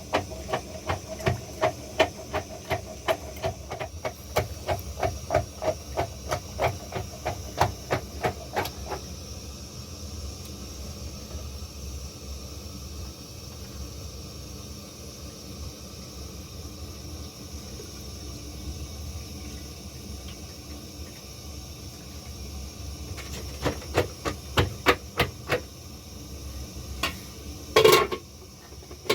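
Rapid, even knocking, about three knocks a second, for the first nine seconds and again for a few seconds near the end, over a steady hiss.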